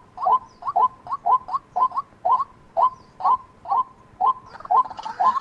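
White-breasted waterhen calling: an even, rapid series of short notes, about four a second. A noisy hiss comes up under the calls near the end.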